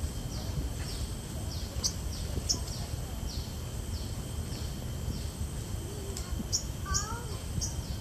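Birds calling: a steady run of short, high, falling calls about two a second, with sharper chirps scattered through and a short burst of lower warbling notes near the end, over a low background rumble.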